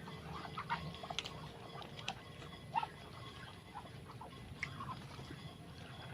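Muscovy ducks making scattered short, soft calls, mixed with light clicks and taps.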